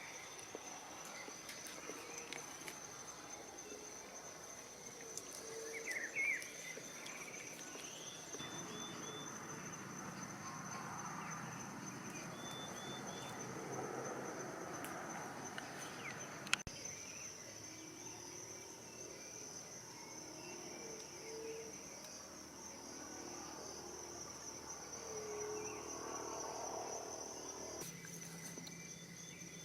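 Insects trilling in one steady, continuous high-pitched tone. A few short chirps come near the start and again about six seconds in, and a single sharp click sounds just past halfway.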